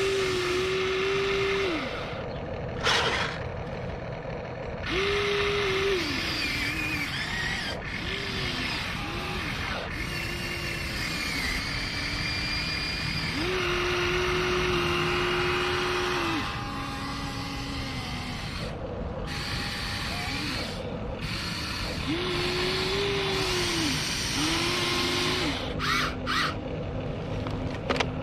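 Huina 1593 RC excavator's electric motors whining in repeated spells, each rising to a steady pitch, holding, and dropping away as the machine works. A few short, sharp clattering noises come between them, about three seconds in and near the end.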